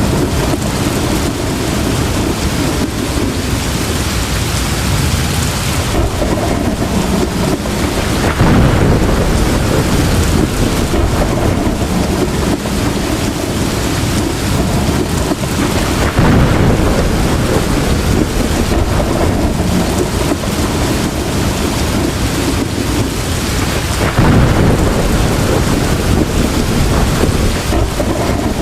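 Heavy tropical rain pouring steadily, with low rolls of thunder swelling up about every eight seconds, three times.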